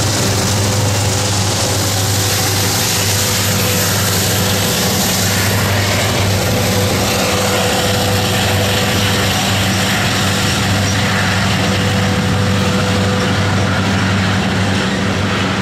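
BNSF diesel locomotives of a coal train passing at close range, then a line of coal hopper cars rolling by on the rails: a loud, steady low engine hum under a broad rumble of wheels on track. A thin tone comes and goes over the rumble, and near the end another pair of locomotives in the train passes.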